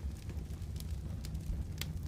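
Fireplace fire crackling: a steady low rumble of the flames with scattered sharp wood pops, the loudest near the end.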